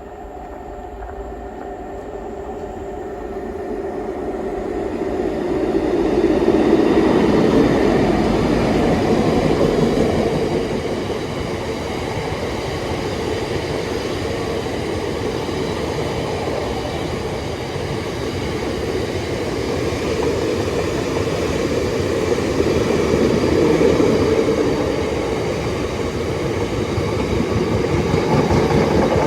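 A train running through the station on steel rails. Its rumble builds over the first several seconds as it comes in, then stays loud and steady.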